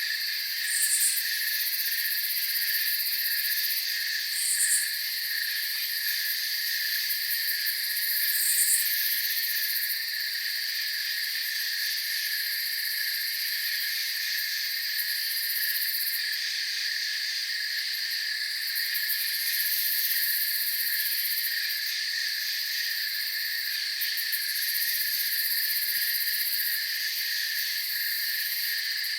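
A steady night chorus of crickets and other insects, several trilling voices at different pitches layered together. Three short, high chirps stand out in the first nine seconds, about four seconds apart.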